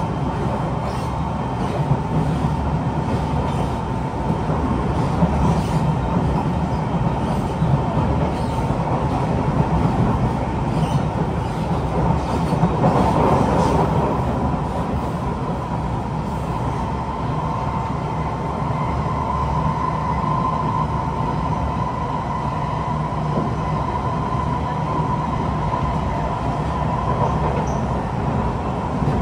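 Kawasaki C151 metro train running between stations, heard from inside the carriage: a steady rumble of wheels on rail under a thin steady whine. About halfway through there is a brief louder swell.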